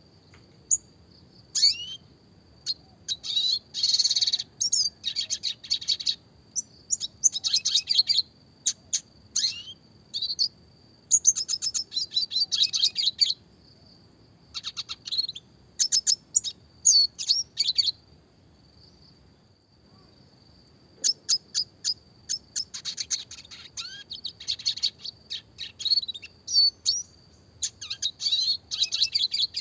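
Red siskin (Spinus cucullatus) singing: bursts of fast, high twittering trills and chirps, one to three seconds long with short breaks, and a longer pause about two-thirds of the way through.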